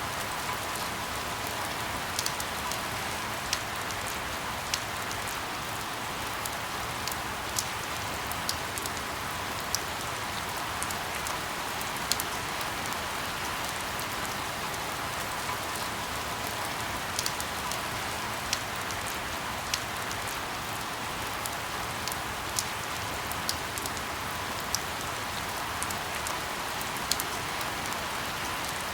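Steady rain falling, with scattered single drops tapping sharply on a surface every second or so.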